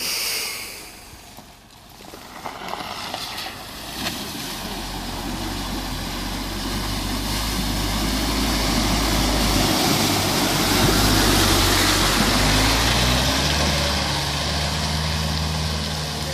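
A Niva 4x4's engine pulling under load through a river ford, with water rushing and splashing around the car and growing louder toward the middle; near the end the engine note rises.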